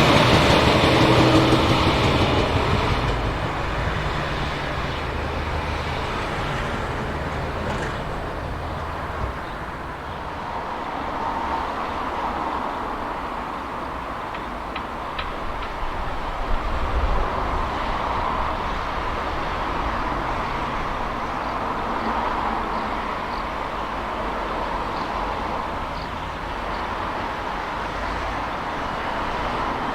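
A train running, loudest at the start and fading over the first few seconds to a steady rumble and hiss.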